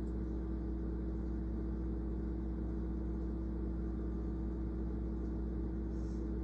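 A steady low machine hum that holds even and unchanging throughout.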